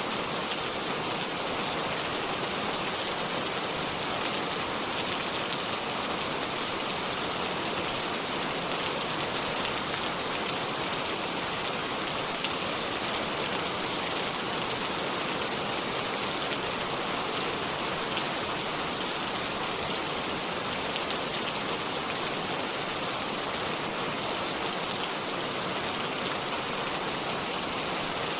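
Steady rainfall, many fine drops pattering on leaves and surfaces in an even hiss.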